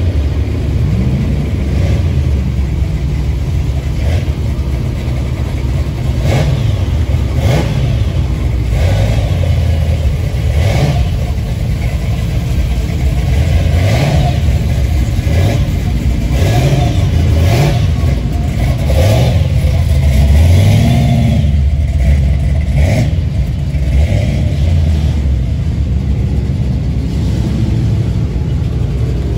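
Several muscle cars' engines running and revving as they pull away one after another, with repeated short throttle blips that rise and fall in pitch over a steady low engine sound.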